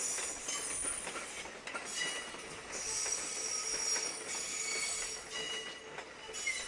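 Electric train wheels squealing as the train moves slowly through depot points and curved sidings, several high-pitched squeal tones coming and going over a steady rolling rumble.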